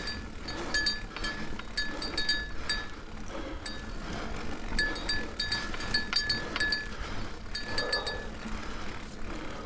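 Mountain bike drivetrain under hard climbing load, giving repeated sharp metallic clicks and pings in clusters about once a second. The rider puts the clicking down to the old single front chainring working against the new 12-speed chain. Heavy breathing runs underneath.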